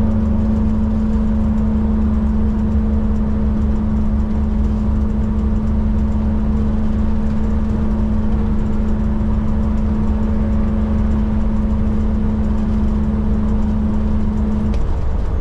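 Heavy truck's diesel engine and road noise heard while cruising: a steady low rumble with an even engine hum that drops away shortly before the end.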